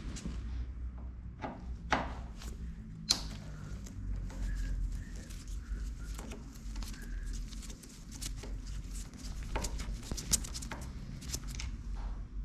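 Scattered clicks and knocks of hand work on a car door, with a sharp snap about three seconds in and a run of quick clicks near the end, over a steady low hum.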